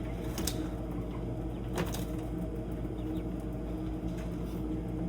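Two sharp clicks of a cage or container being handled, about half a second and nearly two seconds in, over a steady low hum, while baby quail are moved into a new cage.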